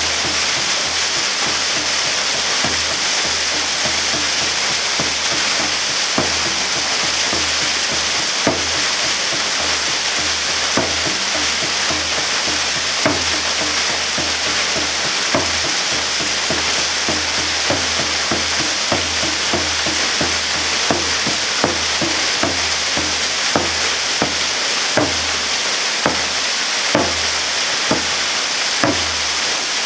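Waterfall pouring steadily, a loud hissing rush, with irregular sharp splashes and spatters that come more often toward the end.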